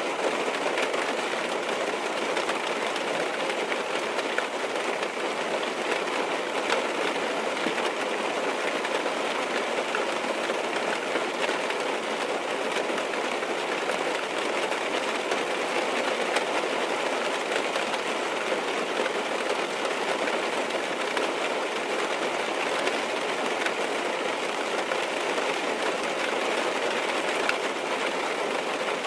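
Steady rain falling on a car's roof and windows, heard from inside the cabin: a dense, even patter of drops that keeps up without a break.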